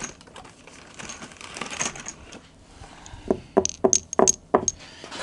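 Handling noise: soft rustling, then a quick run of about six sharp clicks and knocks, some with a light metallic clink, in the second half.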